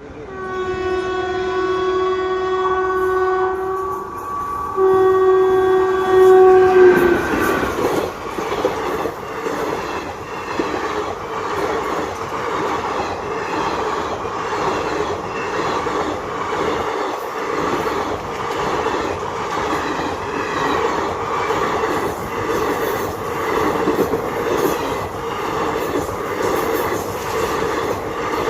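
Train horn sounding two long blasts, the second ending with a brief drop in pitch. It is followed by the train running with a steady rumble and rhythmic clickety-clack of wheels over rail joints.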